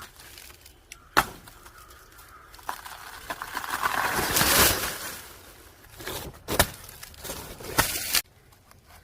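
Outer sheaths of a banana stem being split and torn away to reach the tender core: a few sharp snaps and a long rustling, tearing stretch that swells in the middle and cuts off suddenly near the end.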